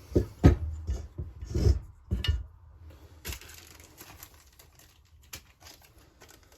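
Tools and chainsaw parts handled on a workbench: a few sharp knocks and clatters in the first couple of seconds, then quieter scattered ticks and faint rustling.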